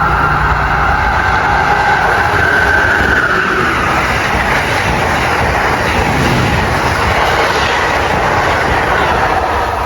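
Amtrak's Silver Meteor long-distance passenger train passing at speed: a loud, steady rush of wheels on rail with some clickety-clack. A high whine falls slightly in pitch about three seconds in.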